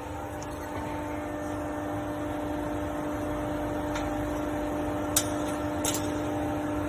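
CNC hose clamp making machine running with a steady hum, with two sharp clicks near the end.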